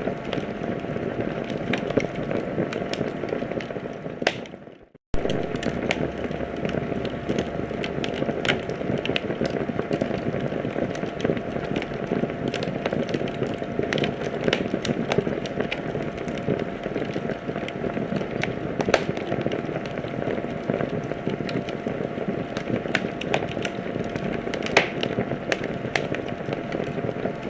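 Wood fire crackling, with a steady low hiss and frequent sharp pops of burning logs. About four seconds in the sound fades away for under a second, then starts again abruptly.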